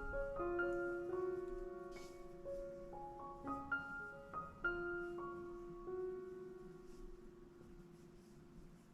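Soft background piano music: gentle rising figures of a few notes, with held notes left to ring and fade.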